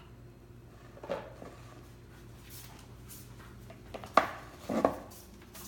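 A bowl knocking and clattering on a kitchen counter: a few short knocks, the sharpest and loudest just after four seconds in, with another just before five.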